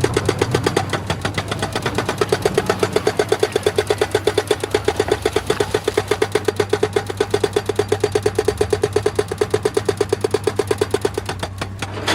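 Excavator-mounted hydraulic rock breaker hammering stone in a fast, even train of blows over the running diesel engine; the hammering stops near the end, leaving the engine alone.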